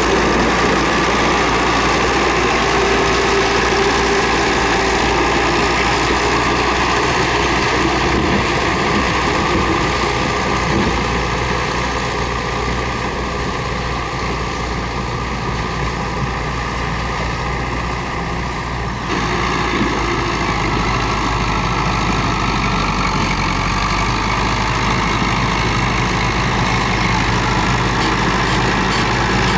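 Komatsu D31P bulldozer's diesel engine running steadily. The sound eases off a little in the middle and comes back up abruptly about two-thirds of the way through.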